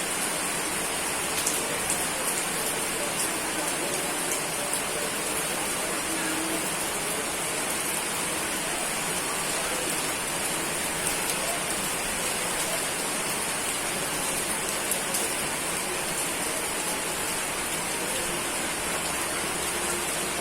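Steady heavy rain falling on a surface, an even hiss with faint scattered drop ticks.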